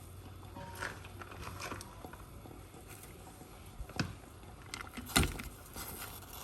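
A few light clicks and knocks of kitchen things being handled, over a low steady hum.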